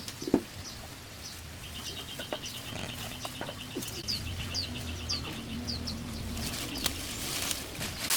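Birds calling outdoors: a fast, even trill lasting a few seconds, then a string of short, high, falling chirps.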